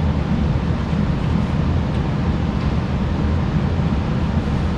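A steady low rumble with no distinct knocks or clicks.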